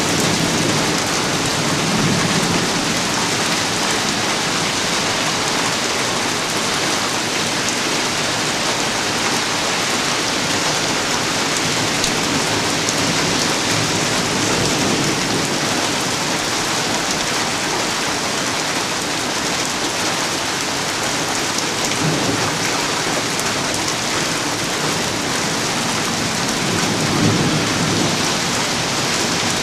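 Heavy thunderstorm rain pouring steadily, with low rumbles of thunder swelling up a few times.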